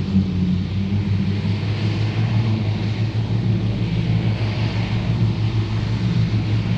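Ford 8630 tractor's diesel engine running steadily under load while driving a Mengele SH40N forage harvester, with a steady hiss over the engine hum that swells about halfway through.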